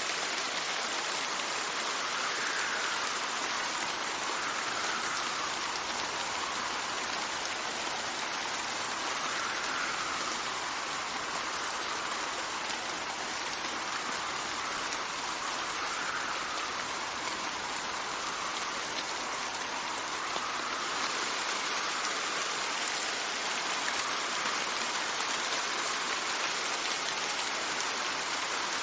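Steady rain falling, an even hiss with a brighter band that swells and fades about every two seconds.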